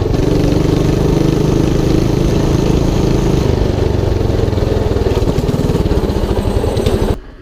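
212cc Motovox mini bike's single-cylinder four-stroke engine running hard, then slowing to a lower, pulsing run from about five seconds in. The sound cuts off suddenly near the end.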